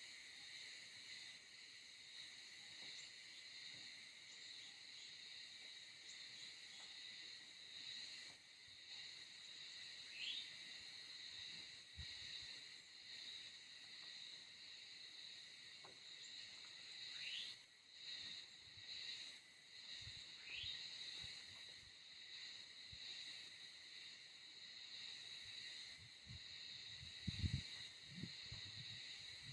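Steady insect chorus, a dense high trilling that does not let up, with three short rising chirps scattered through it. A few low thumps near the end.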